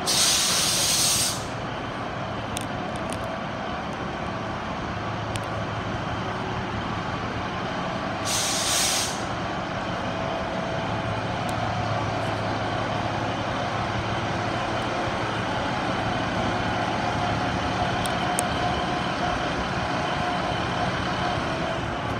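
Diesel multiple unit running at the platform with a steady engine drone as it pulls out, broken by two short, loud hisses of air released from the brakes: one at the start and one about eight seconds in.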